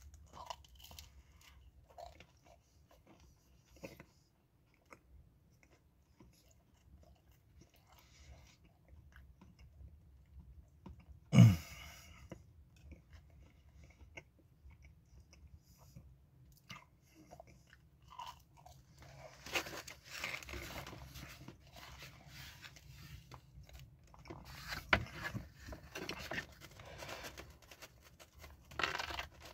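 A person chewing and crunching bites of pepperoni pizza with a New York style crust. The crunching is sparse and faint at first and grows denser and louder in the last third. One brief loud low sound stands out about a third of the way in.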